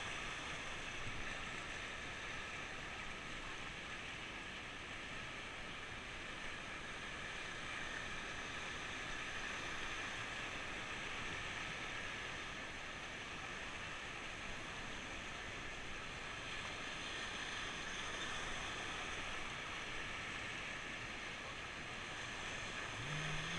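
Steady rush of fast-flowing river water, an even continuous noise.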